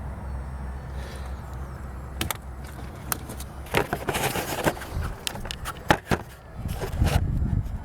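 Handling sounds of hard objects: a low steady hum that fades after about two seconds, then scattered sharp clicks and knocks, with a rough scraping noise about four seconds in.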